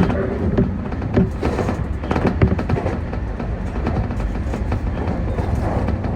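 Keio Inokashira Line electric train running along the track: a steady low rumble, with a few sharp clicks from the wheels over rail joints in the first couple of seconds.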